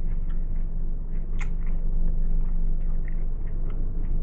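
Close-miked chewing of a Subway sandwich: scattered small wet mouth clicks and smacks, one sharper than the rest about a second and a half in, over a steady low hum.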